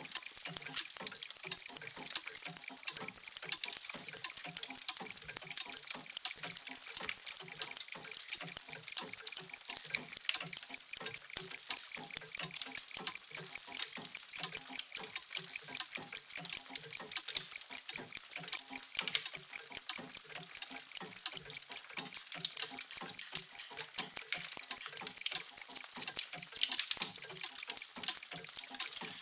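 Many mechanical clocks ticking at once, their ticks overlapping into a steady, dense clatter of many ticks a second.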